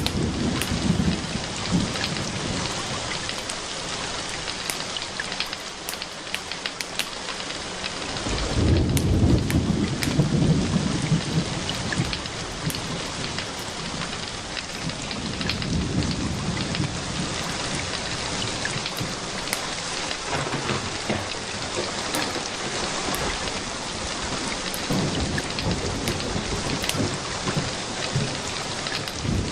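Steady rain with low rolling thunder that swells up several times, loudest about nine seconds in, over a scatter of sharp crackling ticks.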